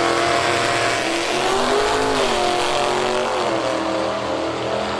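Drag racing car's engine running loud, its pitch rising and falling in the middle.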